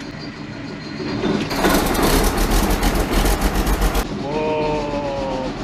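International Harvester 1460 combine's diesel engine turning over a couple of times, then starting and running loudly for a couple of seconds. About four seconds in it settles to a steadier run, with a high whine over it that sags slightly in pitch.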